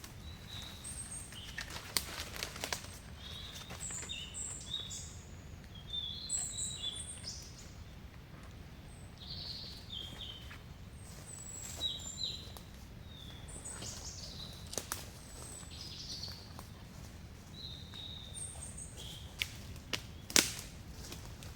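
Forest birds chirping in many short, high calls over a low steady rumble, with a few sharp knocks or snaps, the loudest shortly before the end.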